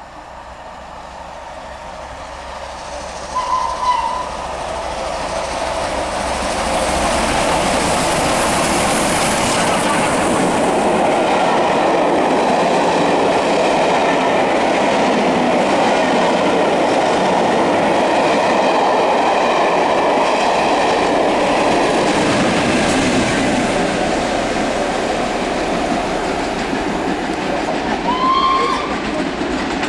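Two short whistle toots from B1 steam locomotive 61306 Mayflower, then the train passing close by. The wheels clatter over the rail joints as the sound builds to a long steady peak and then eases. A brief rising squeal comes near the end.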